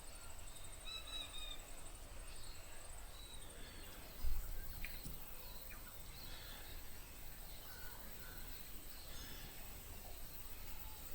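Scattered faint chirps and calls of small birds over quiet outdoor background noise, with a faint steady high pulsing tone throughout. A single low thump about four seconds in.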